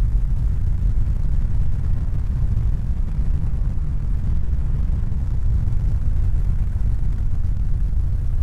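A steady, even low rumble with no distinct events, its energy almost all in the deep bass.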